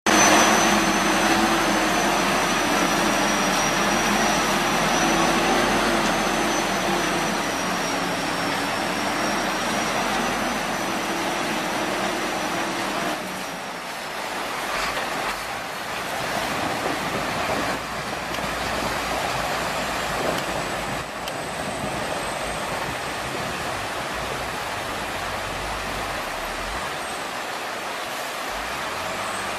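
Big 8x8 dump truck's engine running steadily with a thin high whine over it. About halfway through, the hum and whine give way to a rougher, more uneven engine-and-vehicle noise.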